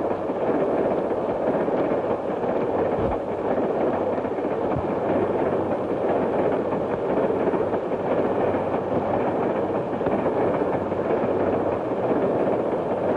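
Steady, crackly rumbling noise of a train running, with no clear beat of wheels on rail joints.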